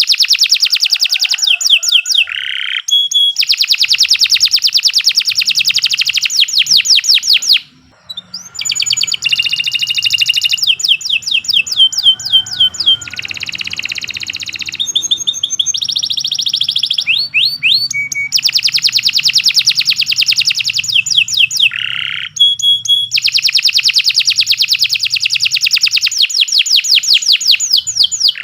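Domestic canary singing a long, loud song made of rapid trills of fast repeated notes, one roll after another, with a brief pause about eight seconds in.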